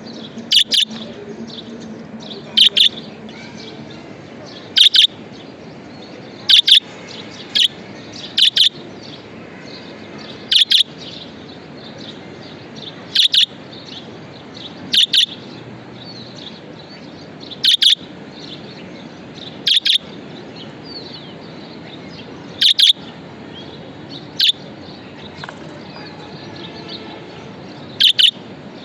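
Budgerigars chirping: a loud, sharp double chirp repeated about every two seconds over steady quieter chattering and twittering.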